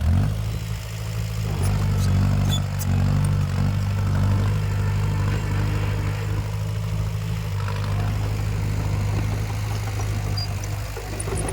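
Heavy-equipment diesel engine running steadily at an even pitch, a low hum with a few faint clicks over it.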